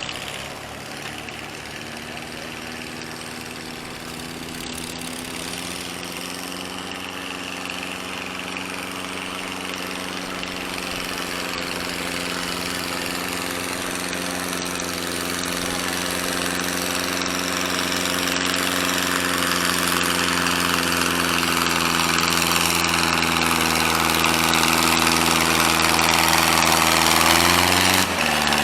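Antique gas farm tractor engine running at a steady, constant speed under load while pulling the sled, growing steadily louder. Near the end the engine note dips briefly and comes back up.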